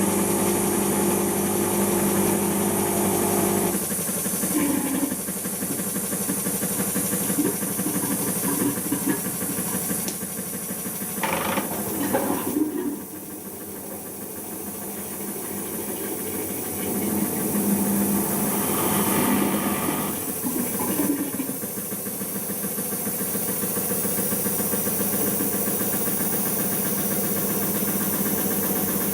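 Siemens iQ washing machine in its intermediate spin after the wash. The drum motor hums steadily, turns rougher with scattered knocks about four seconds in, and drops off sharply a little before halfway. It then builds back gradually to a steady hum as the spin ramps up toward 1000 rpm.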